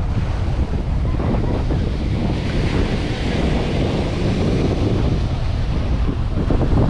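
Waves breaking and washing on a sandy beach, one surge swelling about halfway through, with heavy wind buffeting the microphone throughout.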